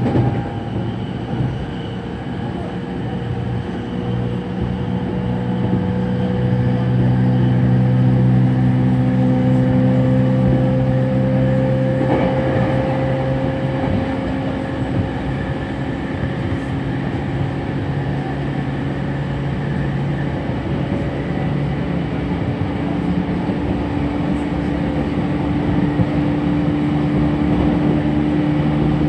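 Electric train running, its motors giving a whine whose pitch rises slowly as the train gathers speed, over steady rumble of wheels on rail. About twelve seconds in there is a brief louder rush.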